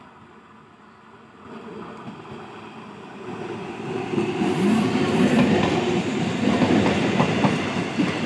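Electric multiple-unit local train approaching and passing close by, growing steadily louder over the first four seconds. It then holds a loud running noise of wheels on rails, with a rhythmic clickety-clack of wheels over rail joints in the second half.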